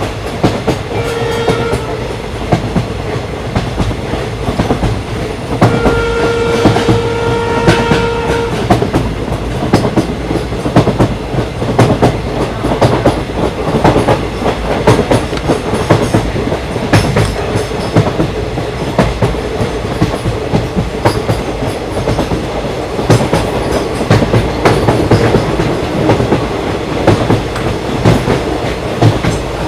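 Locomotive horn of a passenger train: a short blast, then a longer one of about three seconds. Throughout, the train runs with a steady rumble and rapid clicking of wheels over rail joints.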